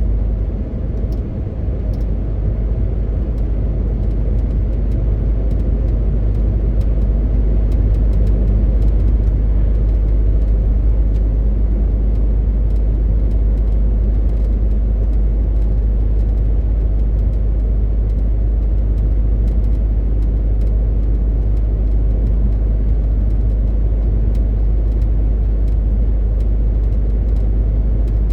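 MAN TGX 18.520 truck on the move: a steady deep drone from its six-cylinder diesel engine mixed with road noise. The level dips briefly about a second in, then holds steady.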